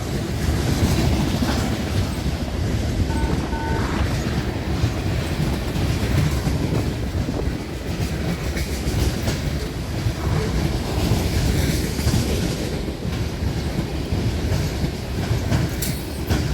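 CSX freight train of loaded rubbish cars rolling past, a steady rumble of wheels on rail.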